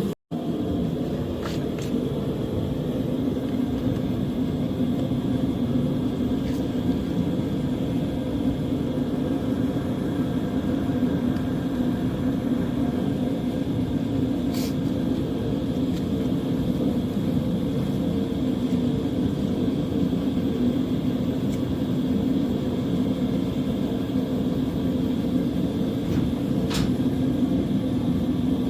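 Engine running steadily at idle, an even low rumble, with a couple of faint clicks in the second half.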